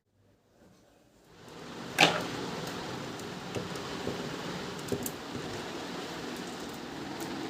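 A single sharp knock about two seconds in, after near silence, followed by a steady background hiss with a few light clicks.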